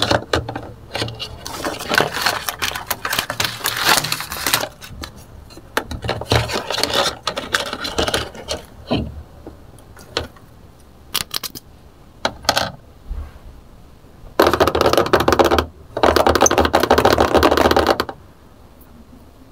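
Hard plastic toy dishes clattering and clicking as they are set into a plastic toy dish rack, in irregular knocks and rattles. Near the end come two loud stretches of steady noise, each a second or two long.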